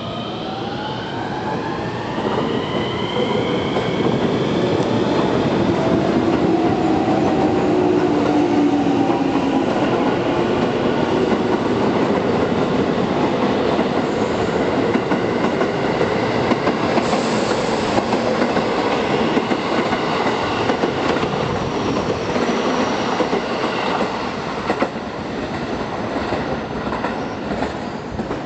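JR West 113 series electric train running past along the platform: steady wheel-on-rail rumble with clatter over the rail joints, and whining tones that shift in pitch during the first several seconds as it comes in.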